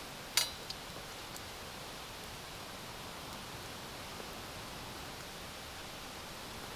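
Steady background hiss, with one sharp clink about half a second in and a fainter tick just after.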